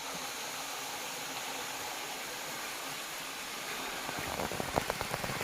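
A steady hissing rush, with a run of irregular knocks and crunches starting about four seconds in.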